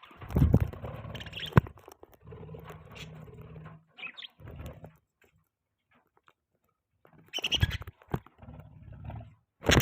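Pet budgies chirping in short, scattered calls over low rustling and scraping. The sound cuts out completely for about two seconds midway and comes back louder near the end.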